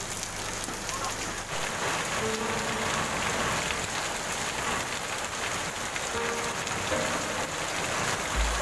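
Heavy rain falling steadily on a wet paved street, with streams of runoff pouring down close by, an even hiss throughout. A brief low thump comes near the end.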